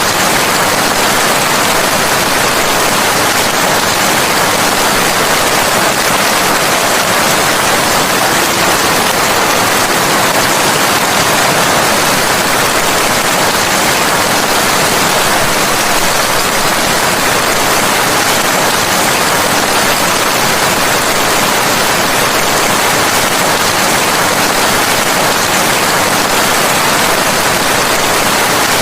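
Steady, loud rain falling in an even hiss, with no single drops or other sounds standing out.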